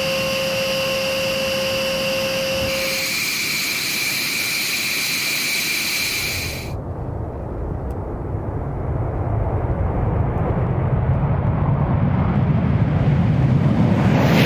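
Jet aircraft engines running with a steady high-pitched whine for about six seconds, then an abrupt change to a low rumble that builds louder.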